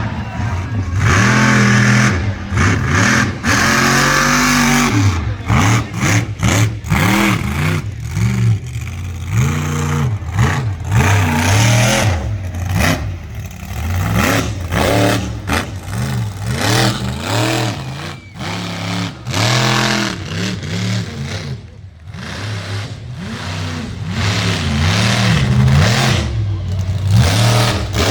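Demolition derby car engines revving up and down hard, over and over, several at once, with sharp knocks throughout.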